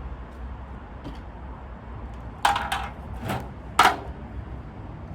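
Four sharp clacks of hard objects knocking together, close together about halfway through, over a steady low background rumble.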